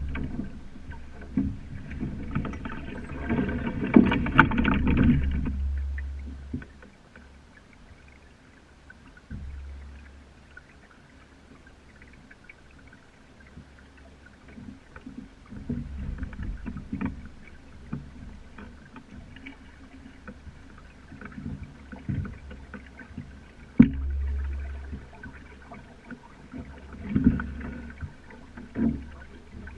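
Sailing dinghy under way: gusts of wind buffeting the microphone, water washing along the hull, and scattered knocks from the boat's fittings. Loudest for the first few seconds, with a sharp knock about 24 seconds in.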